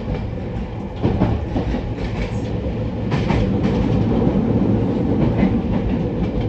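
Interior running sound of a JR East E231 series commuter train car: a steady rumble of wheels on rails, with clacks as the wheels pass over rail joints. It gets louder about a second in.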